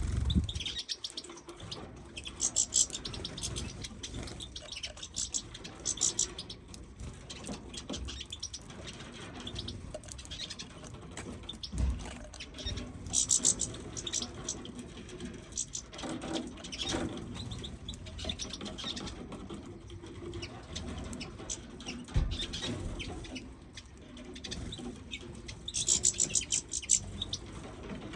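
Small finches chirping and twittering in short, high bursts a few seconds apart.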